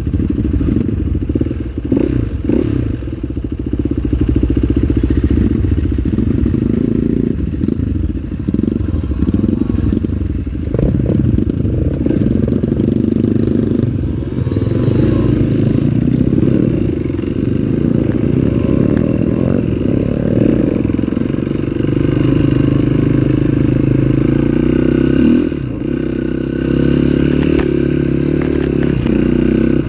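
Trail motorcycle engine running continuously, its pitch shifting up and down with the throttle.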